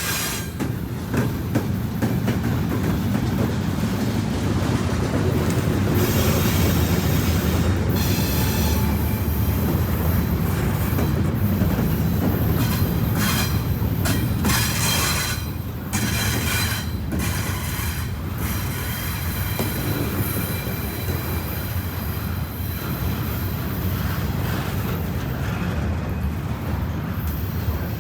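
Freight train cars rolling past with a steady low rumble, wheels clacking over the rail joints and squealing on the rails.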